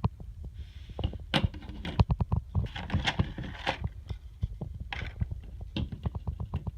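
Hands handling a die-cast model airliner's packaging: a run of small plastic clicks and taps with a burst of crinkly rustling about three seconds in, as a wing is taken out of its packing.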